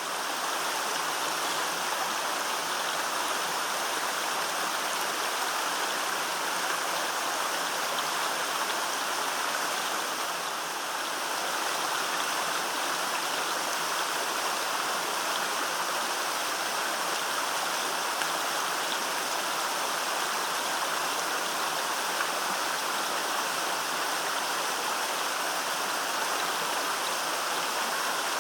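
Golovkinsky waterfall: water falling and splashing with a steady, even rush.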